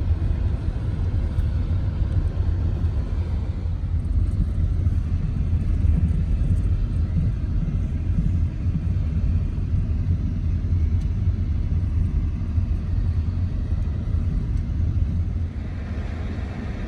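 Vehicle driving, a steady low rumble of engine and road noise that eases a little near the end.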